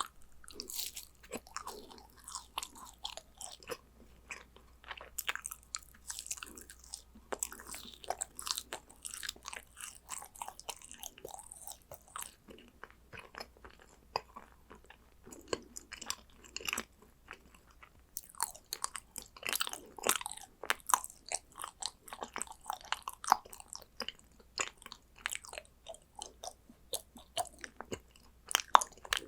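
A person chewing and biting yakgwa, Korean honey-soaked fried cookies, in irregular runs of many small clicks, with a quieter stretch about halfway through.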